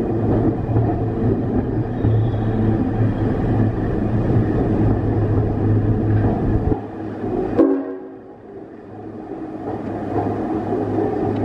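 Queensland Rail electric Tilt Train moving alongside the platform: a steady rumble with a low hum. About seven seconds in it drops away with a single sharp click, then builds back up.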